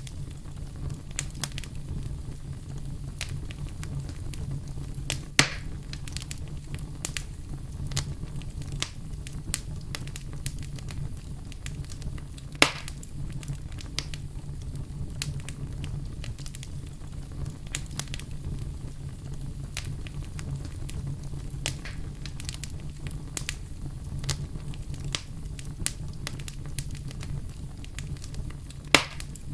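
Wood fire burning in a fireplace: a steady low rumble with constant crackling and three louder pops.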